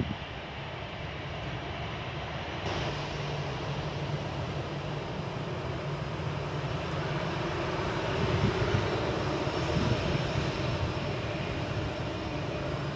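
Airliner engines running as an aircraft passes, a steady roar with a low hum that grows louder and peaks about two-thirds of the way through.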